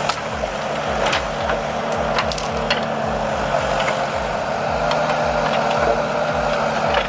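Valtra forestry tractor's engine running steadily under load, with scattered sharp clicks and knocks, over a background beat pulsing about three times a second.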